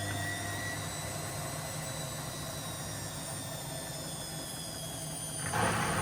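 Washing machine spinning its drum at high speed, the motor's whine having just climbed and now holding at a steady high pitch. A louder rushing noise joins about five and a half seconds in.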